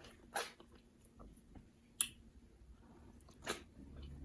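Wet eating sounds from a mouthful of fufu with slimy ogbono and egusi soup: short sharp clicks and smacks, three louder ones about a second and a half apart among fainter ones.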